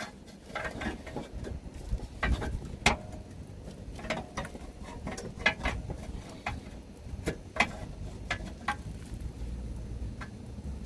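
Irregular clicks and scrapes of work on an old exhaust pipe flange gasket being pried off the pipe. The ring is rusted on and crumbling as it comes away.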